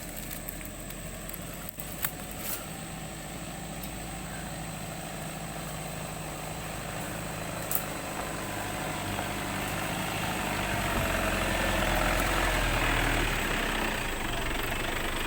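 A motor vehicle engine running steadily, growing louder over the second half, with a couple of sharp clicks along the way.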